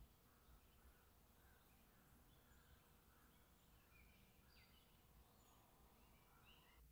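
Near silence: faint room tone with faint, scattered bird chirps.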